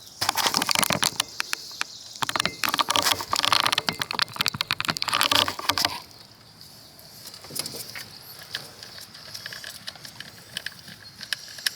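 Rapid metallic clicking and rattling for about six seconds, then fainter scattered ticks: hand tools and loosened ignition-coil hold-down bolts being worked out on a Land Rover 4.4 V8.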